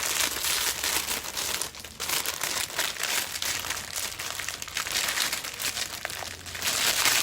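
Plastic packaging crinkling and rustling as a welding electrode holder is handled and taken out of its wrapping. There is a brief lull about two seconds in, and the sound stops abruptly at the end.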